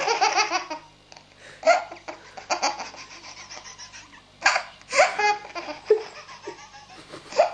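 A baby laughing hard in repeated bursts, with the loudest fits a little under 2 seconds in and again around 4 to 5 seconds in.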